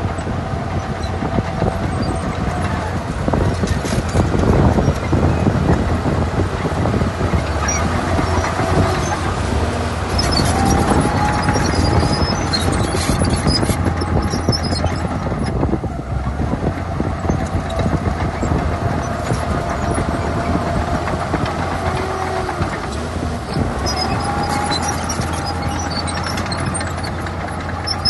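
Heavy diesel earthmoving machinery working: a steady low engine drone with a recurring drawn-out squeal that wavers slightly in pitch, as from a bulldozer's crawler tracks.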